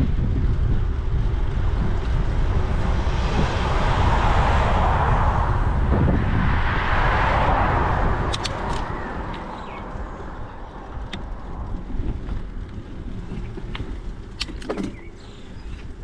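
Wind buffeting the microphone of a moving bicycle, with two vehicles passing one after the other, swelling and fading. It turns quieter after about eight seconds, leaving a few light clicks and rattles.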